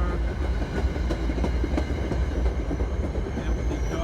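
A train rolling past: a steady low rumble with wheels clicking and knocking irregularly over the rail joints.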